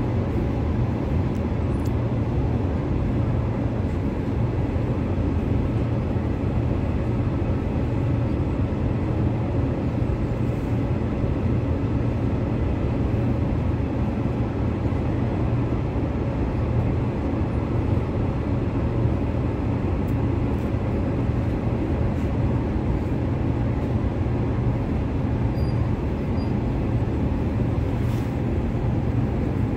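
Cabin running noise of a Transperth B-series electric multiple unit (Bombardier/Downer EMU) moving at low speed: a steady, even low hum and rolling noise with no breaks.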